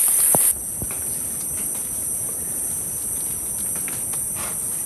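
Steady high-pitched insect chorus in rainforest. About half a second in it drops abruptly to a softer level, then carries on evenly with scattered faint ticks and crackles.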